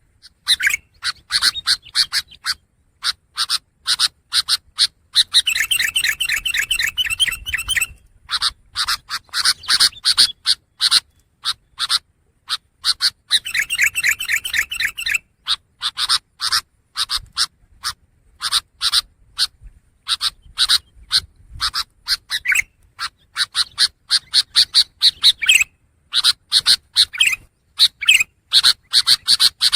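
Long-tailed shrike (pentet) singing: a rapid, unbroken stream of short, sharp chips and notes. Twice, at about five and thirteen seconds in, it runs into a fast rattling trill lasting two to three seconds.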